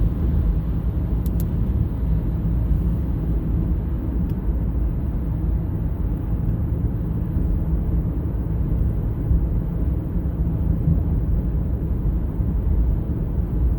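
Truck driving at steady speed: a constant low rumble of engine and road noise.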